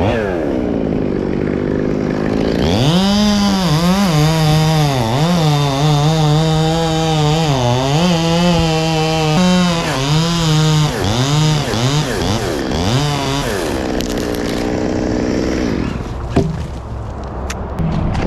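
Chainsaw revved to full throttle about three seconds in and held there for about ten seconds, its pitch dipping and recovering again and again as the chain loads in the cut, then easing back to a lower speed. It is cutting the very hard, heavy wood of an Australian pine.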